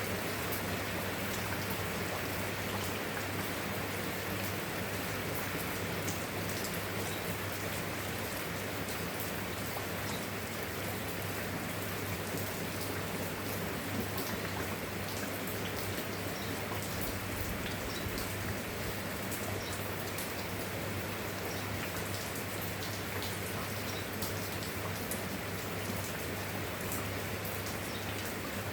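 Steady rain with a dense patter of individual drops, over a constant low hum.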